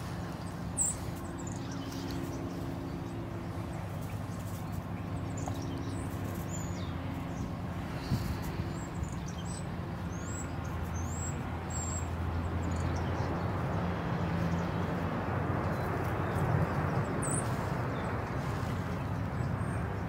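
Short, high bird chirps scattered through, over a steady low hum.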